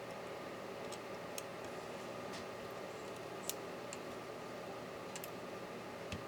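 Scattered small, sharp clicks and taps of tools and small metal and plastic laptop parts being handled during disassembly, about six of them, the loudest about halfway through, over a steady low room hum.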